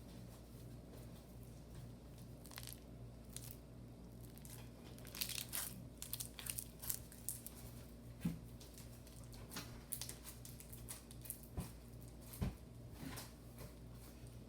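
Homemade slime being squeezed and pulled by hand, giving off soft crackly pops and clicks, sparse at first and coming thicker from about five seconds in.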